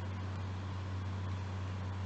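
Steady low mechanical hum with a constant hiss over it, the running sound of a parked food truck's engine or generator.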